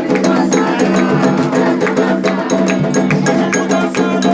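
Candomblé ritual percussion: rapid, dense drum and bell strikes over steady held tones.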